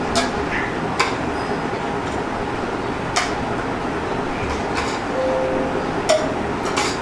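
Dishes clinking as a meal is served: about five short, sharp clinks of spoon and plate, spread irregularly over the seconds, over a steady background noise.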